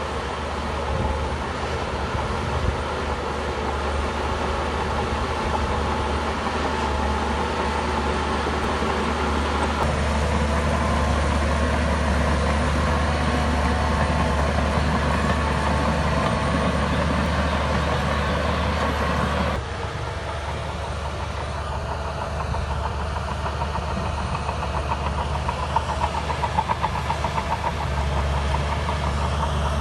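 Shantui crawler bulldozer's diesel engine running steadily as it works, its sound shifting abruptly twice. A run of sharp metallic knocks comes about three-quarters of the way through.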